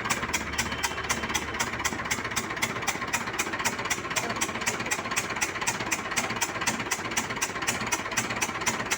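Hindustan tractor's four-cylinder diesel engine idling, with an even, sharp ticking about five times a second over the running.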